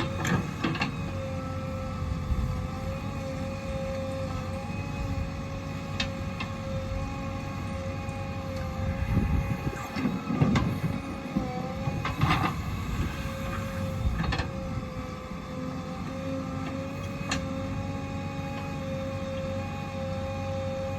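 Heavy diesel earthmoving machinery running steadily with a constant whine, with a louder spell partway through and several sharp metallic knocks.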